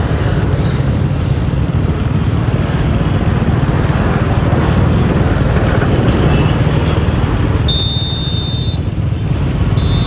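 Riding a Yamaha Lexi LX 155 scooter: a steady wind rumble and road noise over the single-cylinder engine at cruising speed. A thin high tone sounds briefly about eight seconds in and again at the very end.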